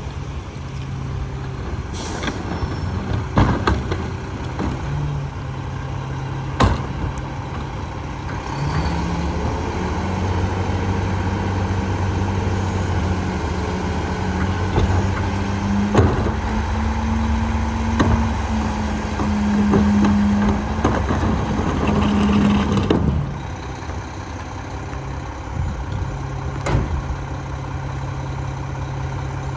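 Mack Granite garbage truck's diesel engine running, its revs rising for about fifteen seconds in the middle before dropping back to idle. Several sharp clanks and a short air-brake hiss about two seconds in.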